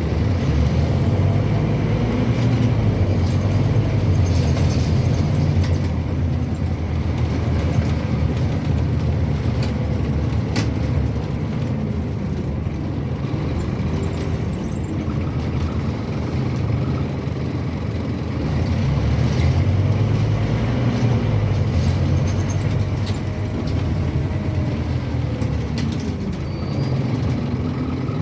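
Scania N230UB OmniCity single-deck bus heard from on board: its diesel engine runs with the pitch rising and falling as the bus pulls away, gathers speed and eases off. A few short rattles and clicks come from the cabin.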